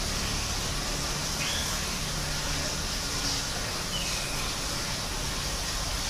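Two short, faint bird calls, each a quick falling whistle, about a second and a half in and again about four seconds in, over a steady low hum and high hiss.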